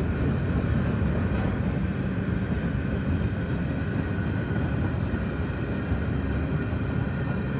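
Canadian Pacific grain train rolling slowly past, a steady rumble of its freight cars' wheels on the rails.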